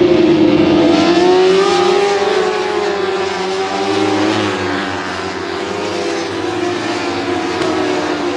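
Several superbike racing motorcycle engines running at high revs together, their pitch rising and falling with throttle and gear changes. It is loudest near the start and eases slightly around the middle.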